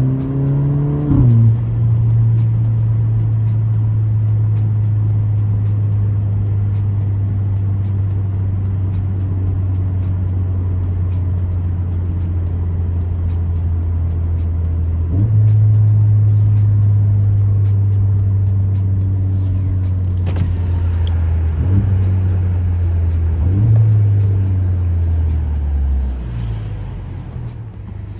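Alfa Romeo Giulia with a muffler delete, its engine and exhaust making a steady drone while cruising. The note drops about a second in, steps up and gets louder about halfway through, shifts pitch a couple more times, and falls away near the end as the car slows.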